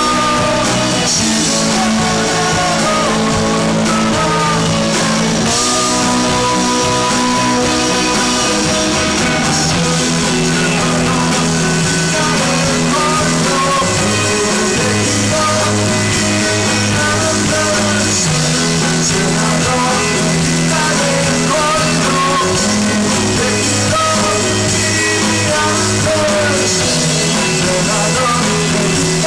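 Rock band playing live: electric guitars, bass and drums, with singing.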